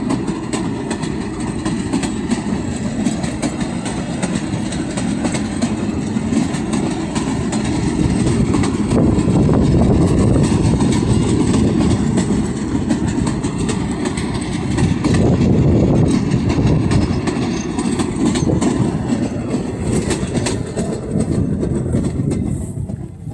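A train passing at close range: a continuous heavy rumble with rapid clicking of the wheels over the rails. It swells loudest around the middle and dies away right at the end.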